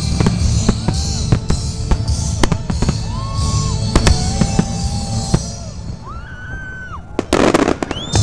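Fireworks display: aerial shells going off in a rapid string of bangs and crackles, with a few whistling tones in the middle and a short rushing launch noise near the end, over music with a steady beat.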